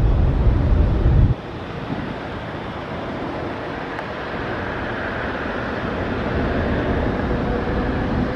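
Boeing 787 airliner's jet engines on landing approach, a steady rush of engine noise slowly growing louder. Wind buffets the microphone with a heavy low rumble for about the first second, which cuts off abruptly.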